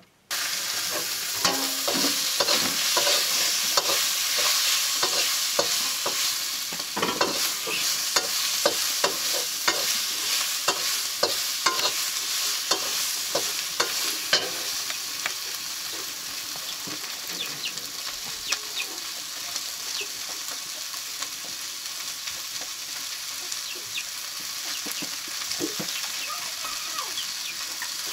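Food frying in oil in a wok: a steady sizzle, with the spatula scraping and clicking against the pan as it is stirred.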